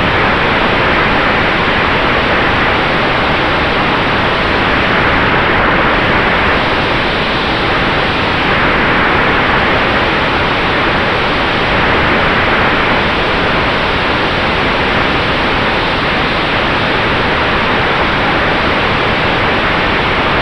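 Steady rushing air noise in flight aboard an electric Sonex Xenos airplane, with a faint steady whine underneath from the electric motor and propeller.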